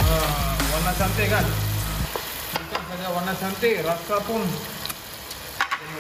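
Sliced onions and tomatoes sizzling in oil in a wok, stirred and scraped with a wooden spatula. A steady low hum underneath cuts off about two seconds in.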